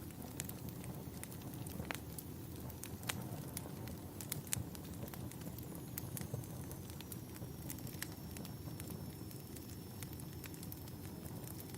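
Campfire burning: a steady low rumble of flames with irregular sharp crackles and pops from the burning wood. A faint, thin high whistle comes in about halfway through and holds.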